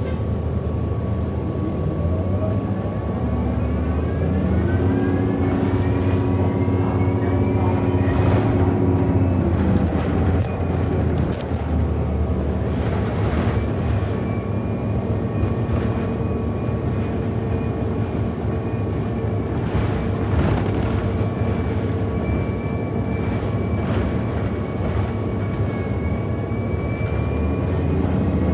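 Inside a 2008 Orion NG HEV hybrid-electric city bus under way: the electric drive's whine rises in pitch as the bus picks up speed, then holds steady over a constant low rumble, with scattered rattles and knocks from the body. A second set of motor tones comes in about five seconds in, drops out near ten seconds, and returns at the very end.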